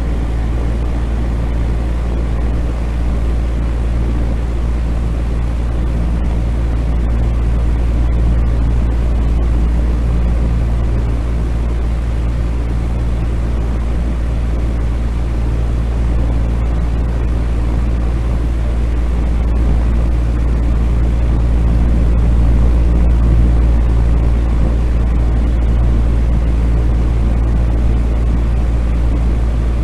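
Steady, unchanging noise with most of its weight in a deep low rumble, thinning toward the top: a continuous noise track for sleep, billed as white noise.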